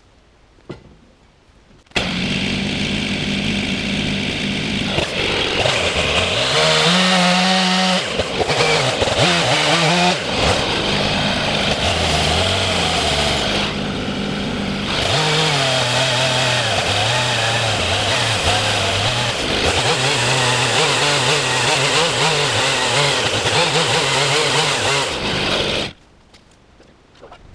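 Two-stroke chainsaw running and cutting, its engine pitch rising and falling with the load; it starts abruptly about two seconds in and cuts off near the end.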